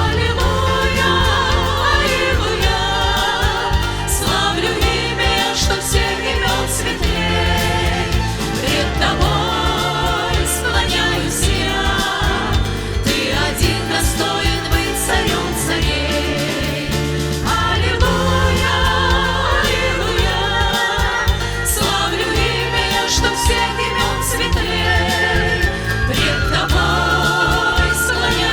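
Christian worship song: a vocal group singing over a band with steady bass and a regular drum beat.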